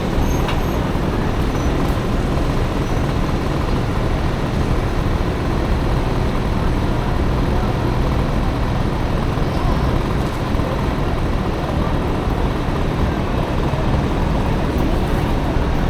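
Steady road and traffic noise heard from a Honda Motocompo scooter fitted with a Dio engine riding through city traffic, with a dense low rumble of wind and motor noise throughout.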